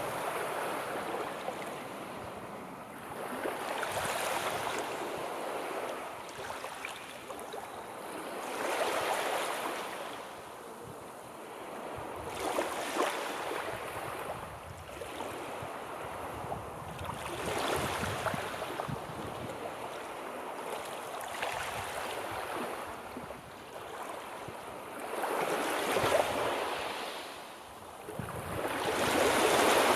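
Sea surf, waves breaking and washing back in swells that rise and fall about every four seconds, the loudest near the end.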